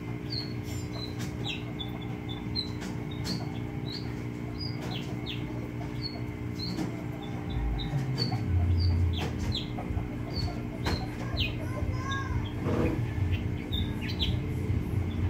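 A bird chirping repeatedly, short high chirps a little more than once a second, over a steady low hum, with a brief low rumble about eight seconds in.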